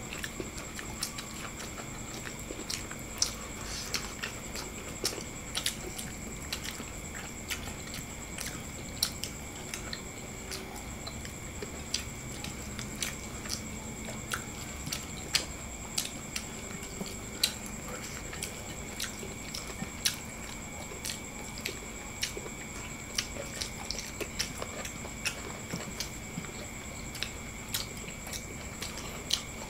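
Close-up eating sounds: chewing and mouth noises, with irregular short soft clicks, over a faint steady high-pitched whine.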